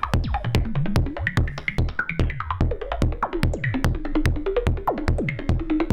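Make Noise Shared System modular synthesizer playing a synthesized percussion loop with a techno feel: a steady kick patched from oscillators and envelopes, with sharp clicks and short pitched blips that glide downward.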